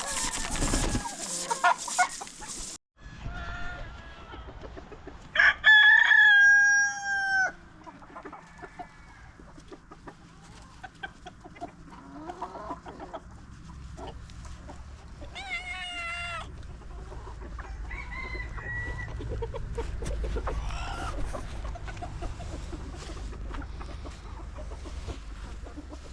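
Chickens clucking, with a rooster crowing loudly about five seconds in, a long held call, and crowing again more briefly around the middle.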